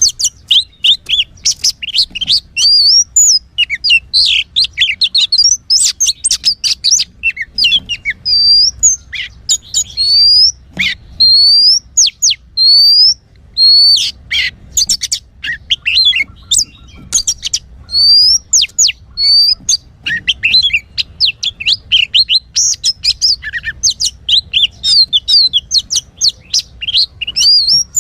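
Oriental magpie-robin singing a fast, varied song of chirps and short whistles, with a run of clear rising whistles near the middle.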